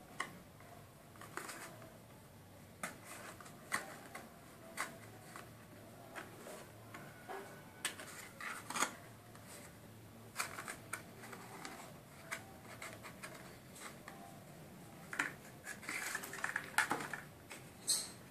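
Irregular light clicks and taps, with small clusters near the middle and a busier run near the end.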